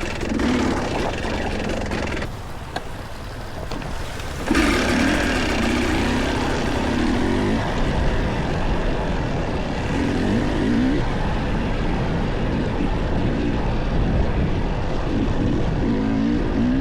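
Dirt bike engine running and revving on the trail, its pitch rising and falling with the throttle, over steady wind and riding noise. About two seconds in, the engine note drops back, then returns loudly about four and a half seconds in.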